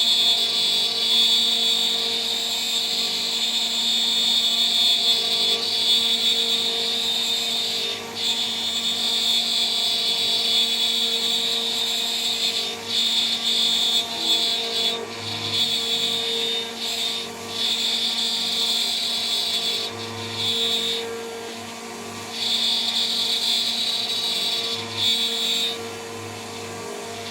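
CNC router spindle running at about 14,000 rpm with a 3 mm three-flute end mill cutting: a steady high whine over a grinding cutting noise. The cutting noise drops away briefly several times.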